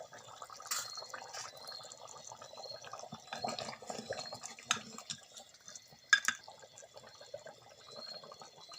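Chicken curry gravy bubbling and sizzling in a pot, with a few sharp clinks of a spoon against the pot, the loudest about six seconds in.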